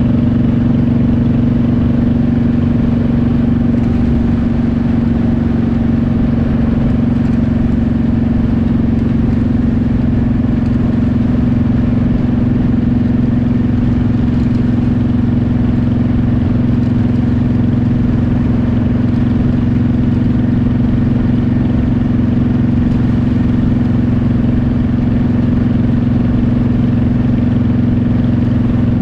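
Motorcycle engine running at a steady cruising speed, a constant even drone with no change in pitch.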